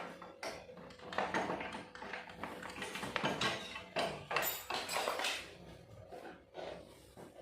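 Irregular metallic clinks and scrapes of hand tools working on motorcycle exhaust bolts, as the stock exhaust is being unbolted and removed.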